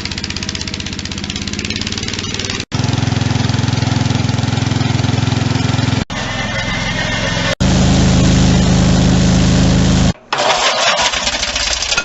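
Small gasoline engine of a riding lawn tractor running steadily, in several few-second takes joined by abrupt cuts. The engine speed and loudness change from take to take.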